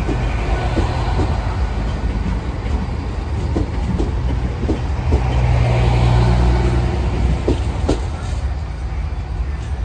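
Train moving along the track: a steady low rumble with a deeper engine-like note swelling in the middle, and irregular sharp clicks of wheels passing over rail joints.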